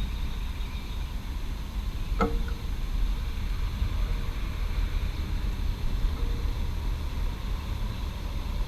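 Steady low rumble of distant urban traffic. A hot Ducati motorcycle gives one sharp metallic tick with a short ring about two seconds in, and a fainter ring near six seconds, as its metal contracts while it cools.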